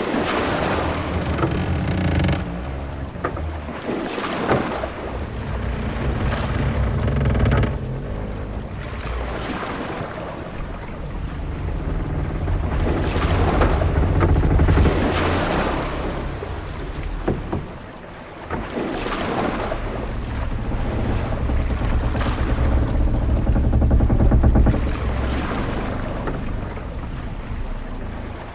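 Ship-at-sea ambience: waves washing and wind blowing, with a heavy low rumble that swells and eases every few seconds.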